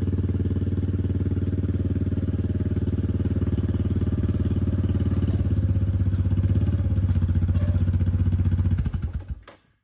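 Yamaha Big Bear 400 ATV's single-cylinder four-stroke engine running steadily while driving, towing a trailer loaded with firewood rounds; the sound fades out near the end.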